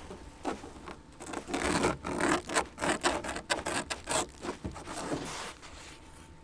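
A run of quick scraping strokes, a dozen or more in a few seconds, thickest in the middle and thinning out near the end.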